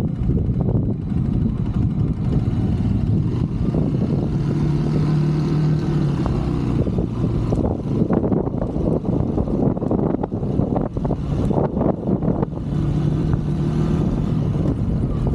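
125cc Brixton motorbike engine running under way. It holds a steady note for a couple of seconds about a third of the way in and again near the end, with knocks and rattles in between.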